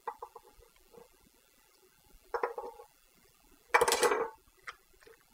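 Dishes and serving utensils clinking, then scraping twice as salad is spooned onto a plate, the second scrape the louder.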